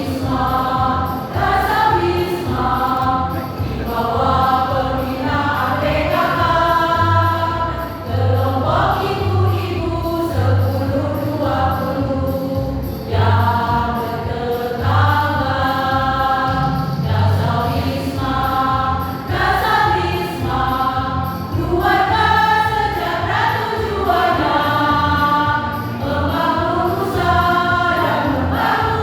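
A choir singing a song in parts, with accompaniment that carries a steady low beat.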